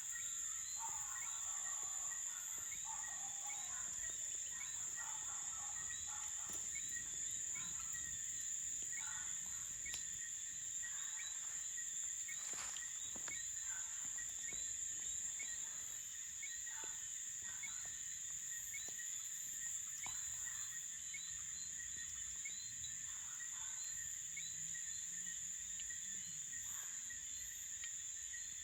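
Night-time insect chorus: crickets singing, a steady high-pitched trill with regular chirps repeating underneath. A few faint short calls and some faint sharp clicks come through.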